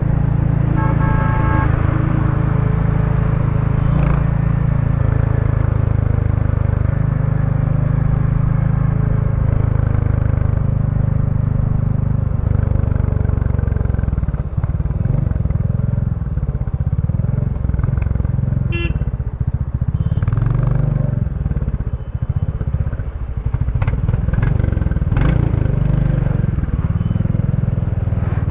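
2023 Royal Enfield Bullet 350's 349 cc single-cylinder engine running through its stock exhaust while being ridden. It holds steady for the first half, then rises and falls with throttle changes in the second half.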